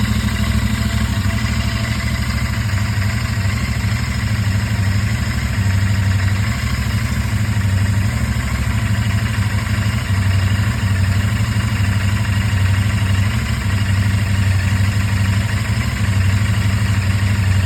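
Royal Enfield Interceptor 650's 648 cc parallel-twin engine idling steadily, warming up after a cold start.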